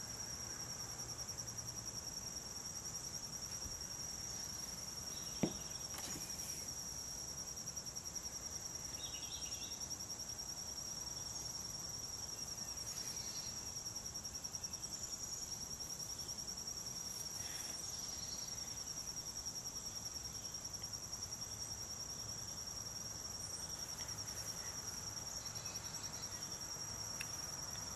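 Insects trilling steadily in a continuous high-pitched, finely pulsing chorus, with one sharp tap about five and a half seconds in.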